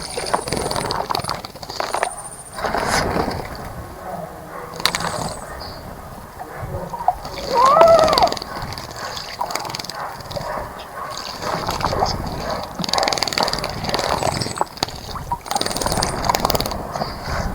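Birds splashing in a garden bird bath, many short splashes and flicks of water. One short animal call that rises and falls comes about eight seconds in.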